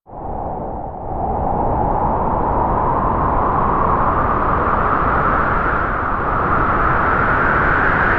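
Strong wind howling through trees: a loud, rushing noise with a howl that slowly rises in pitch. It swells up from silence in the first second.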